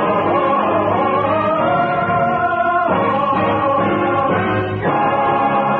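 Choir singing held chords with orchestra, the chords changing twice, in a narrow-band old radio recording.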